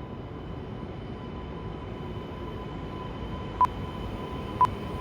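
Steady rumble of an approaching train that slowly grows louder. Near the end come two short, identical high beeps a second apart, a quiz countdown before the answer.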